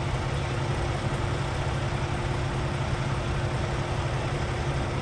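Truck engine idling steadily: an even low drone with a faint steady hum above it.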